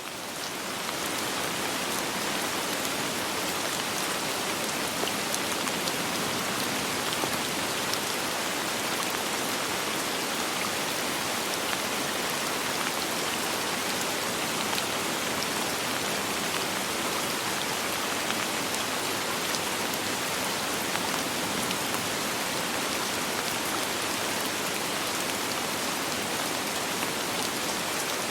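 Soft rain falling steadily, a dense even hiss with scattered drop ticks, fading in over about the first second and then holding level.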